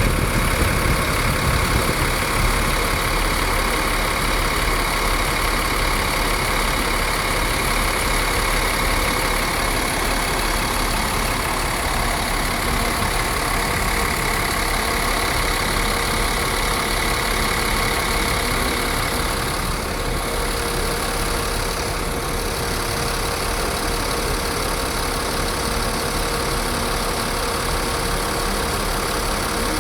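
Scania K450CB bus's DC13 13-litre inline-six diesel engine running steadily, apparently at idle, with no revving.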